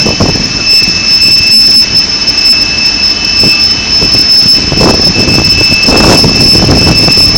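Loud, steady jet-turbine whine and roar, with two high steady whistling tones over a broad rush of noise that swells about five and six seconds in.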